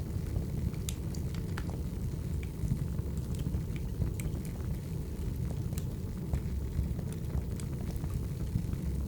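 Burning wood fire: a steady low rumble of flames, with sharp crackles and pops from the logs at irregular moments.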